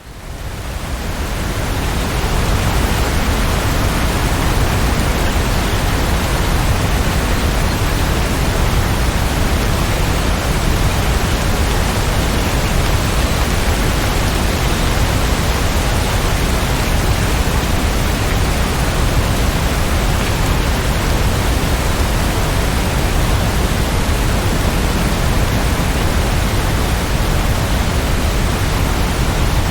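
Steady, dense rainfall as an even hiss with a strong low rumble, fading in over the first two seconds and then unchanging.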